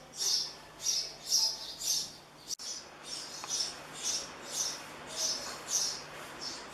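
House sparrows chirping in the nest box: short high chirps repeated about twice a second, with a brief break about two and a half seconds in.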